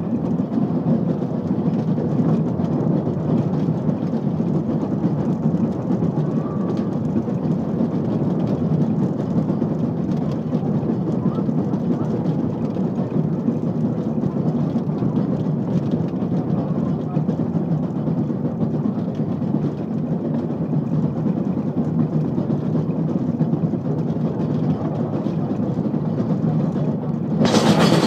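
Electric rack railcar running along a rack section of track: a steady rumble of motors, gearing and wheels on rail. About half a second before the end the sound suddenly becomes louder and brighter.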